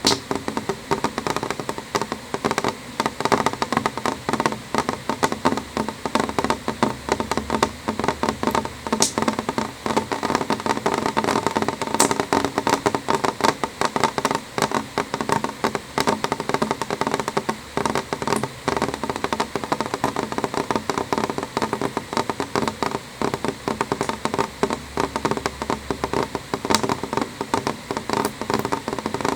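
Rain falling steadily on a window pane: a dense, even stream of small drop ticks, with a few sharper taps standing out now and then.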